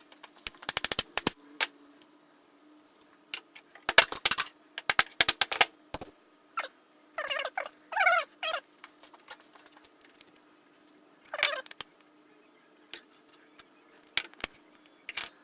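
Wooden handle pieces being handled and lined up on a board: clusters of sharp clicks and knocks, with a couple of short, wavering squeaks near the middle.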